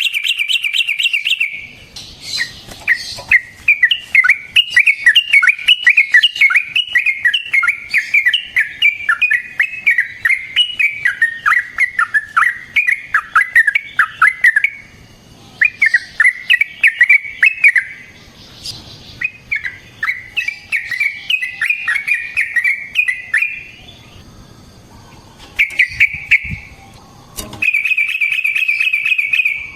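Yellow-vented bulbul singing a long, rapid, chattering run of varied notes. It comes in several bursts with short pauses between them and ends in a fast, even trill.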